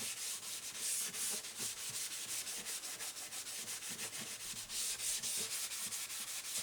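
Hand sanding of an acoustic guitar's dyed wooden body, done lightly to scuff out imperfections in the finish. The abrasive rubs back and forth in quick, even strokes, several a second, giving a steady scratchy hiss.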